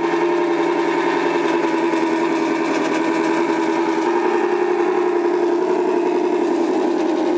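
Turbo9 sound module in a 1/14 Tamiya Knight Hauler RC truck playing its simulated big-rig diesel engine sound through the truck's small speaker, held at a steady raised rev with a slight dip in pitch near the end.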